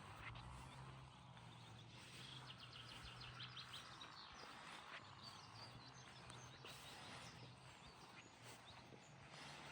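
Faint outdoor ambience: a low steady hum with a run of short, high bird chirps about two to four seconds in.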